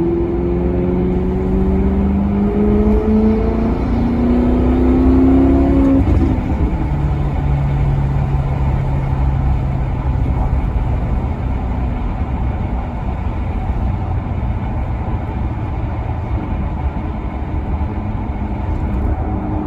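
Maserati Quattroporte Sport GT's V8 accelerating hard, its pitch climbing in steps through the gears for about six seconds. It then drops off to a steady lower drone and settles into cruising with road rumble.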